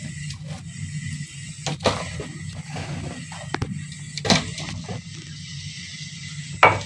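A kitchen knife knocking sharply on a cutting board half a dozen times, spaced irregularly, as garlic cloves are cut. A steady low hum runs underneath.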